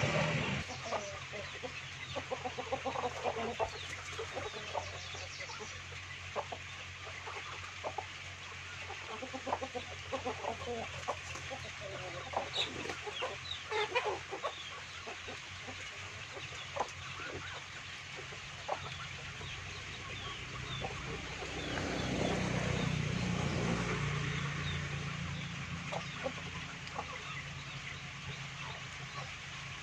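A flock of chickens clucking, with many short sharp clicks scattered through. A low hum swells for a few seconds about two-thirds of the way through.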